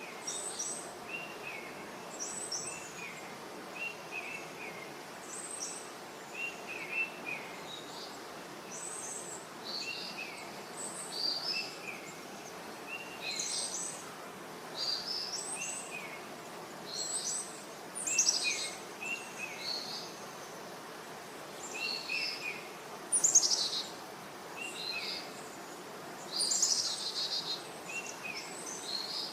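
Wild birds chirping and calling again and again, short notes at two pitches, one lower and one higher, over a steady background hiss.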